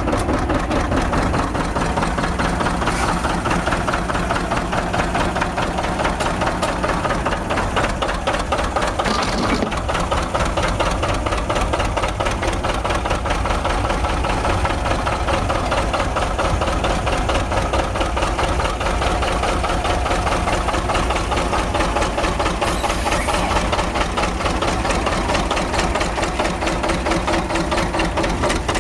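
John Deere 80 two-cylinder diesel tractor engine running steadily after being started from its pony motor, with an even pulsing beat.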